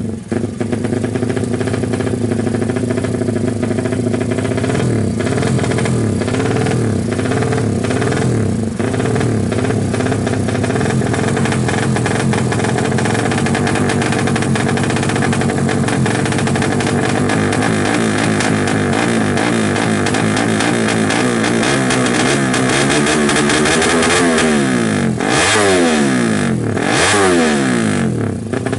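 Suzuki Satria FU drag-bike engine, bored out to 200 cc with twin exhausts, running loud and being revved up and down while it is tuned, with a few quick sharp blips of the throttle near the end.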